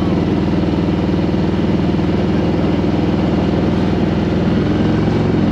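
Harley-Davidson Road Glide Special's Milwaukee-Eight V-twin running steadily at low revs, with an even pulsing beat.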